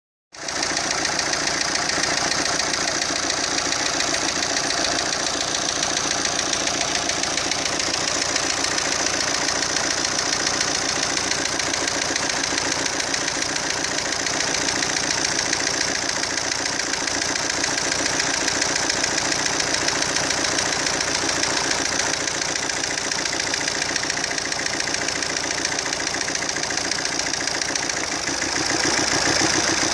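Fiat Croma diesel engine running steadily at idle with a knock, a little louder near the end.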